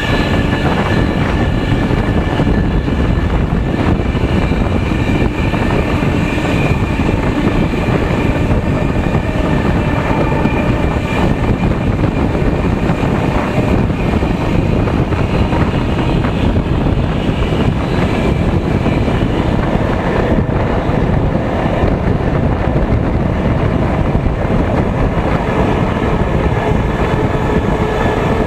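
Passenger train running along the track, heard from outside the rearmost coach: a steady rumble of wheels and rushing air, with the DE22000 diesel locomotive's engine heard from the front of the train.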